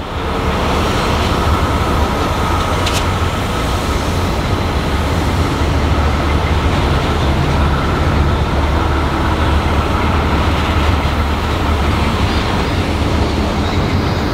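ARTC ballast train's loaded hopper wagons rolling past close by: a loud, steady rumble of steel wheels on rail with a low hum and a thin steady high ring. A brief sharp tick sounds about three seconds in.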